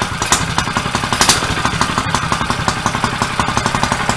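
A 212cc single-cylinder engine on a pit-bike trike idling steadily, with a rapid, even beat.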